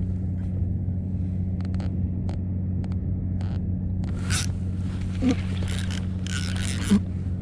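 A steady low hum, with scattered light clicks and bursts of rustling or splashing from about four to seven seconds in.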